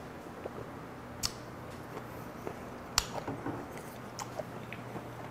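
Close-up chewing of raw whiteleg shrimp with sea urchin roe and sea cucumber innards: soft, wet mouth clicks, with two sharp clicks about a second in and about three seconds in, the second the loudest.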